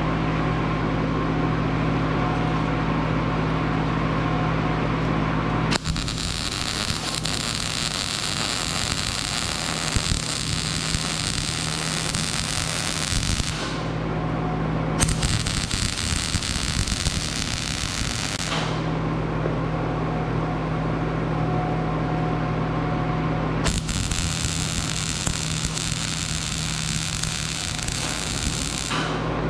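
Electric arc welding in three runs, the first about eight seconds long and the next two a few seconds each, crackling steadily over the constant hum of the welding machine.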